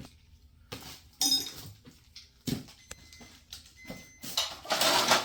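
Scattered clicks and knocks of hand tools and metal hardware being handled, a couple with a short metallic ring about a second in, then a louder scraping noise from about four and a half seconds in.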